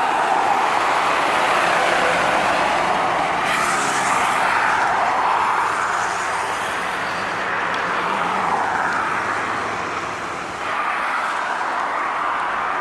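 Road traffic passing on a highway: continuous tyre and engine noise, with one vehicle's engine passing about four seconds in.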